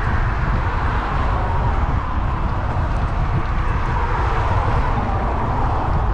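Steady wind rumble on an action camera's microphone while riding an electric bike, mixed with a continuous rushing noise of tyres on the path.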